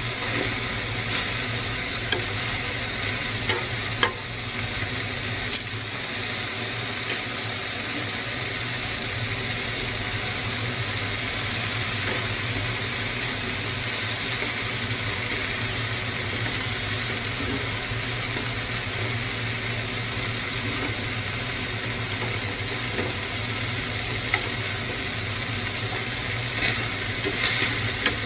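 Buffalo meat and water spinach sizzling as they stir-fry in a frying pan, with a steady low hum underneath. There are a few sharp clicks in the first several seconds and again near the end.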